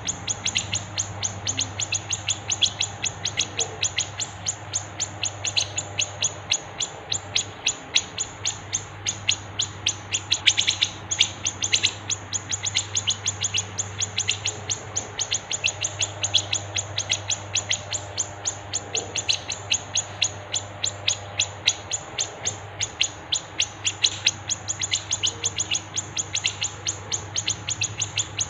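Songbirds in a bird-song tutor recording chirping sharply and repeatedly, about three or four chirps a second without a break, over a faint low hum.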